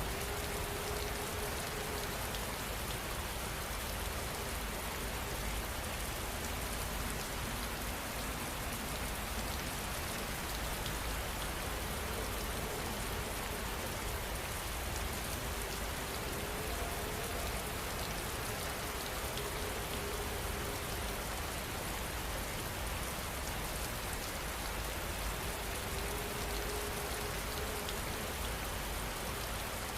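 Steady heavy rain falling, an even hiss that holds at one level throughout.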